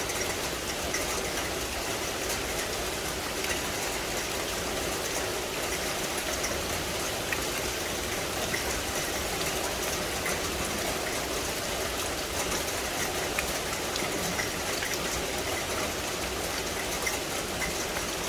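Steady rain falling in a tropical forest, an even hiss with scattered drips.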